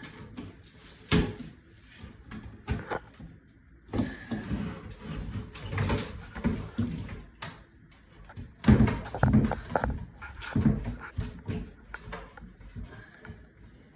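Irregular knocks and rattles of an exhaust fan housing being handled and fitted into the ceiling opening, with one sharp knock about a second in and a busier run of clattering between about 8 and 11 seconds in.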